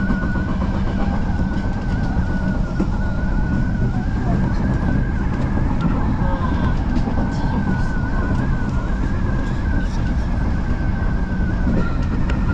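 Odakyu Line electric commuter train running, heard from on board: a steady low rumble of wheels on track with a high, slightly wavering whine held throughout.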